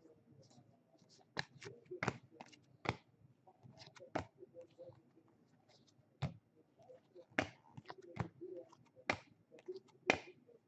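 Baseball trading cards being handled and flipped through by hand: a run of about a dozen sharp, irregular clicks and snaps as cards are flicked and set down.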